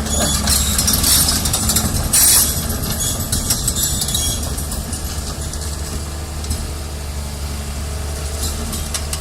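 Heavy diesel machinery running steadily, with a rapid clatter of metal clanks and knocks in the first few seconds and one loud bang about two seconds in.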